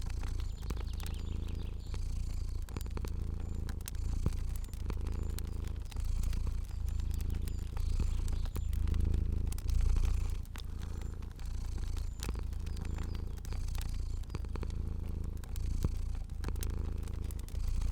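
Cat purring steadily, the low rumble swelling and easing about every two seconds with its breaths, over the scattered small pops and snaps of a crackling fire.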